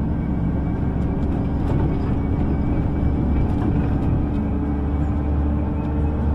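Steady low rumble of a city bus's engine and running gear heard from inside the passenger cabin, with a faint steady hum underneath.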